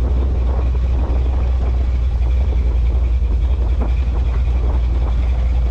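Car engine running with a steady low rumble as the car rolls slowly in to park.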